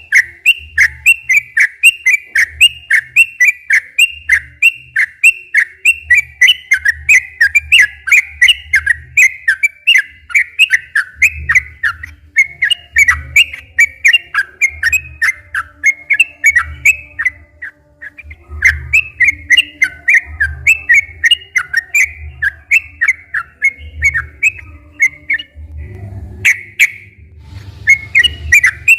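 Yellow-vented bulbul (trucukan) in long, continuous song: quick, repeated bubbly whistled notes, several a second, with only a couple of brief pauses.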